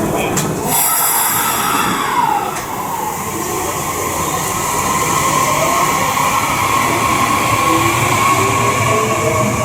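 Electric train pulling out of the station, with a short hiss about a second in and a motor whine that rises steadily in pitch as it gathers speed.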